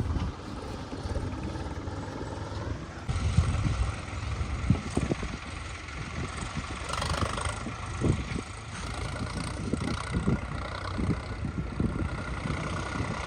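A heavy machine's diesel engine running steadily, with scattered short knocks; the sound changes character about three seconds in.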